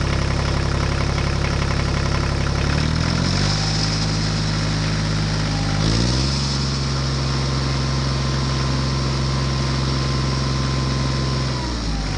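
A DIY mini tractor's motor running steadily, its speed stepping up about three seconds in and again around six seconds, then dropping back near the end.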